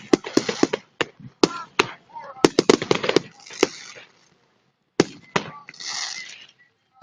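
Fireworks display: a rapid run of sharp bangs and crackling for about four seconds, a brief gap, then a single bang followed by about a second of crackling.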